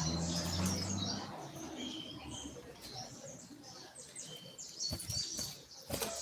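Coleiro (double-collared seedeater) singing: quick runs of short, high chirped notes of the 'tui tui' song type. There is a low hum in the first second, and two sharp knocks near the end.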